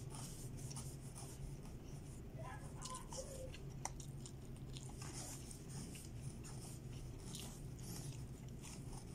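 A person eating chicken and rice with the fingers: quiet chewing and lip-smacking, many short soft clicks, over a steady low hum.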